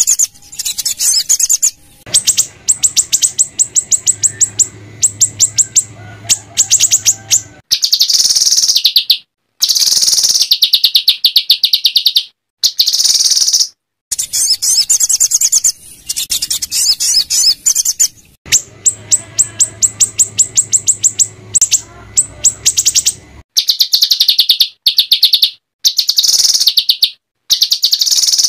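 Small songbird's harsh, rapid chattering trills: very fast strings of sharp high chirps in bursts a few seconds long, broken by sudden short gaps, with the same passage repeating. This is the kind of rough 'shot' call used as masteran to train white-rumped shamas.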